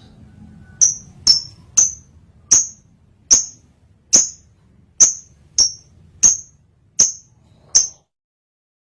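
Lovebird in breeding condition giving a series of about eleven short, sharp, high-pitched chirps, each spaced roughly half a second to a second apart.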